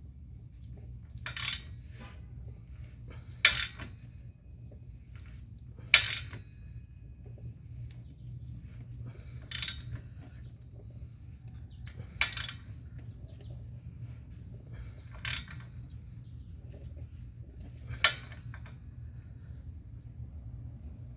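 Sharp metallic clicks from a hand wrench tightening an exhaust pipe clamp, seven in all, one every two to three seconds. A thin steady high-pitched tone runs underneath.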